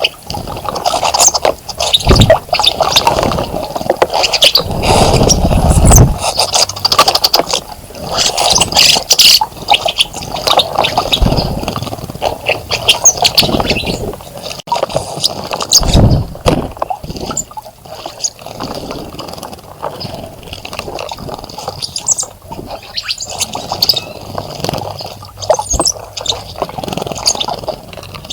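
Small birds bathing in a bird bath, splashing and fluttering their wings in the water in irregular bursts. A few low thumps come through, the biggest about five to six seconds in and again around sixteen seconds.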